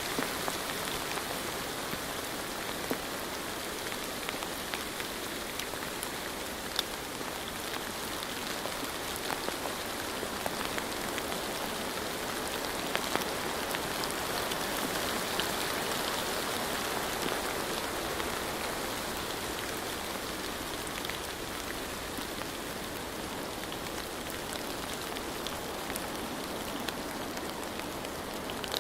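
Steady rainfall, an even hiss with scattered individual drops tapping.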